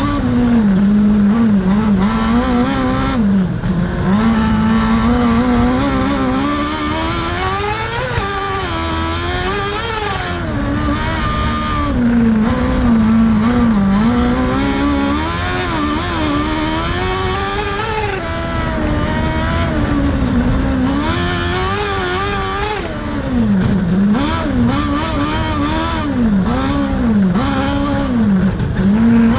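Kartcross race car's engine at racing speed, revving up and down over and over as the driver accelerates, shifts and lifts through the corners. Its pitch climbs and drops every second or two and never settles.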